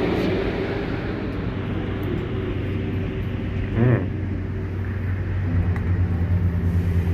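Steady low rumble and hum, with a short squeal that slides up and back down about four seconds in.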